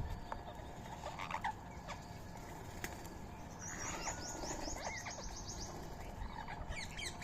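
Birds calling: scattered faint chirps, a rapid high trill of short notes in the middle lasting about two seconds, and a quick run of falling chirps near the end.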